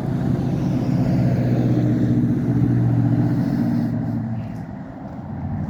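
A motor vehicle driving past on the road, its engine hum building to a peak and then fading away about five seconds in.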